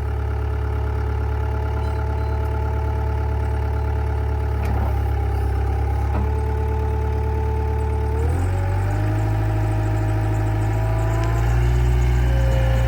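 Takeuchi TL250 skid steer running, a steady engine drone with a higher whine over it; about eight seconds in its pitch shifts upward, and it gets a little louder near the end.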